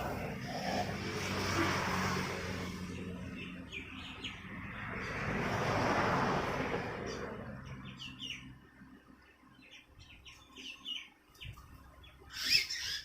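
Birds chirping in many short calls, over a rushing noise of passing traffic that swells and fades twice in the first half; a short loud burst near the end.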